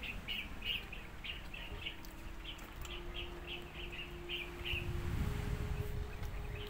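A small bird chirping over and over, about three short chirps a second, with a faint steady hum under it. A low rumble comes in about five seconds in.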